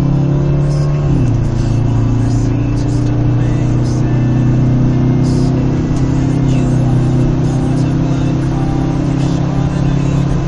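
Car engine accelerating at highway speed, heard from inside the cabin. The engine note drops once about a second in as it shifts up a gear, then climbs steadily as the car gathers speed.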